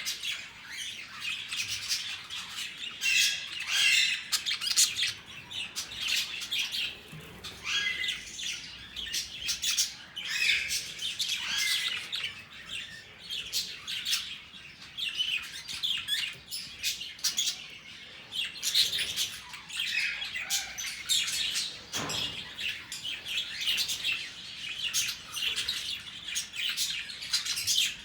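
A flock of budgerigars chirping and chattering all at once, a busy mix of warbling song and short calls with sharper squawks here and there.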